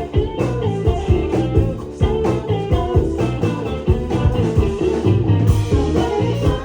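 A live band playing an instrumental passage, with drums keeping a steady beat under pitched instruments.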